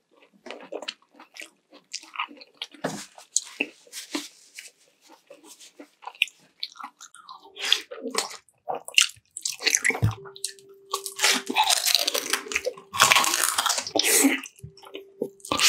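Close-miked mukbang eating of sweet and sour chicken and rice: irregular wet chewing, biting and crunching in short smacks and clicks. The sounds get denser and louder in the last few seconds.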